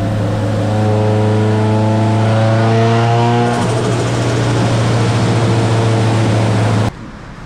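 Car engine run on a chassis dyno: its pitch climbs steadily under load for about three seconds, then drops back and holds at a steady speed. The sound cuts off abruptly near the end.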